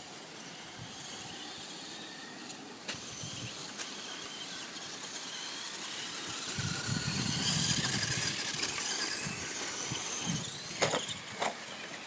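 Electric RC monster truck, a Volcano EPX, driving on a dirt course. Its motor whine rises and falls with the throttle and is loudest around the middle, with a few sharp knocks near the end.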